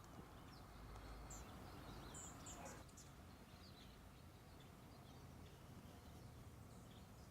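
Near silence with faint, scattered bird chirps in the background.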